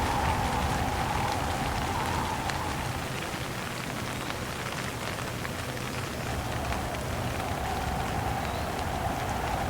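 Steady rain falling, with fine drop patter, and wind blowing in gusts: a hollow howl that eases off in the middle and picks up again near the end.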